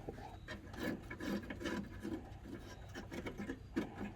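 Hand work on a snowblower: soft rubbing and scraping of tools and metal parts being handled, with scattered light clicks and knocks.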